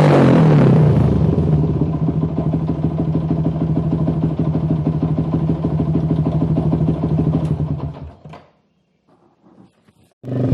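Yamaha MX King 150's single-cylinder four-stroke engine through an aftermarket exhaust, the revs dropping back in the first second and then idling with a steady pulsing beat. The sound cuts off about eight seconds in.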